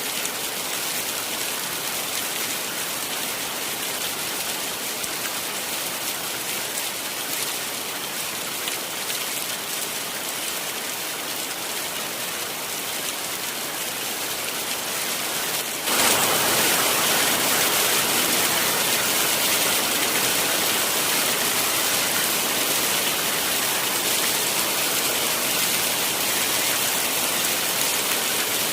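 Heavy rain falling steadily, a dense even hiss of drops. A little past halfway it abruptly becomes louder and brighter and stays so.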